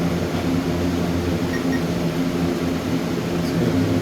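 Steady mechanical hum of a fan or air-conditioning unit, with two faint short high beeps about a second and a half in.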